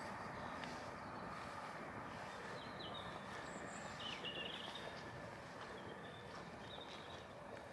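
Small birds chirping in short high calls several times over steady outdoor background noise.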